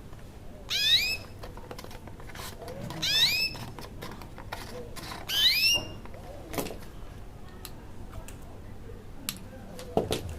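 A bird call: a short rising whistled note repeated about every two seconds, with scattered sharp clicks in between.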